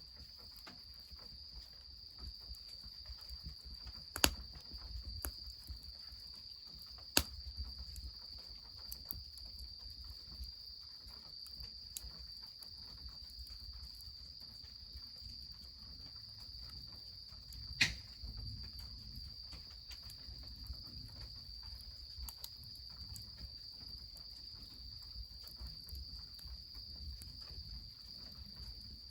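Insects, crickets by the sound, trilling steadily on one high pitch, over a faint low rumble. Scattered sharp cracks cut through, three loud ones about 4, 7 and 18 seconds in.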